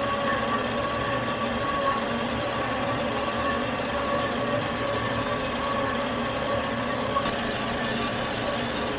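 Metal lathe running under power, turning down a steel axle shaft: a steady machine hum with a constant whine running through it.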